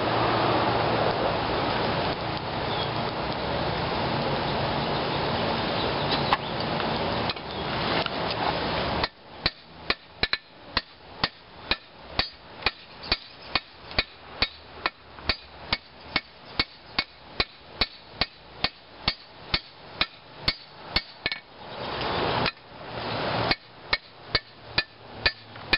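A steady rushing noise for about nine seconds. Then a hand hammer strikes the hot railroad spike on the anvil, about three blows a second, flattening out the knife blade. The rushing comes back briefly a few seconds before the end, and then the hammering resumes.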